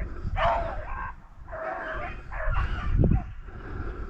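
Beagles baying on a rabbit's trail, several drawn-out bays one after another, the sign of the pack running a rabbit. A low thump about three seconds in.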